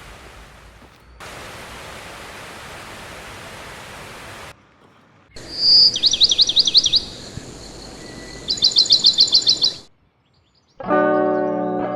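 A steady rushing hiss, then, after a brief cut, a songbird singing two phrases of quick, high, downward-sweeping notes, the second faster like a trill. The sound drops out for about a second near the end, and held musical notes come in.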